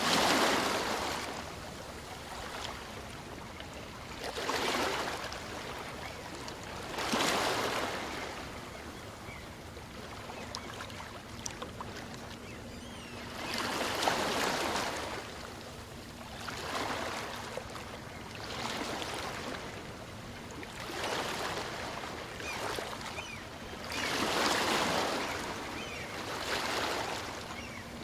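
Small waves on a calm sea washing up a sandy beach and drawing back. The surf swells and fades in irregular waves of noise, one every few seconds, with a quieter wash in between.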